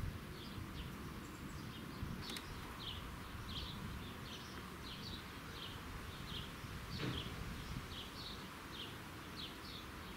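A small bird chirping over and over in short, high, slightly falling notes, about two a second, over a low rumble of wind on the microphone.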